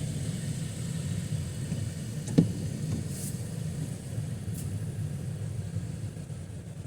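Steady low rumble of road traffic, with a single sharp knock a little over two seconds in.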